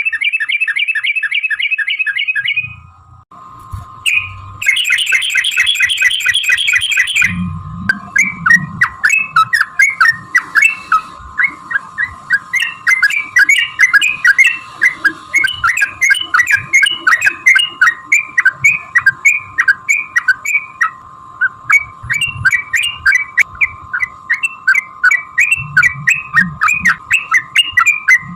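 Yellow-vented bulbul (trucukan) song: two rapid bubbling trills in the first seven seconds, then a long run of quick, repeated chattering notes, over a steady high hum.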